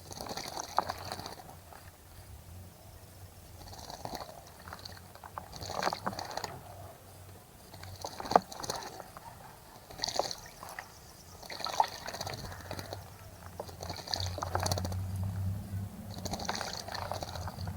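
Small bird splashing in a bird bath: repeated short bouts of water spray and fluttering wings, every couple of seconds.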